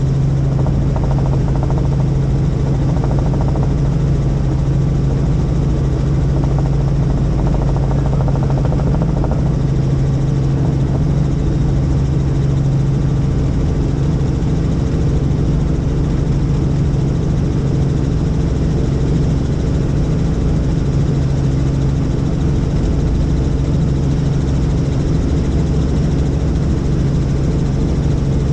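Helicopter in flight, its turbine and rotor running at a steady drone with a strong low hum that does not change.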